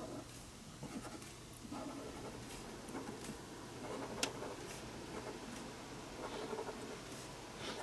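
Pen drawing on paper: faint, irregular scratching strokes, with one sharp click a little past the middle.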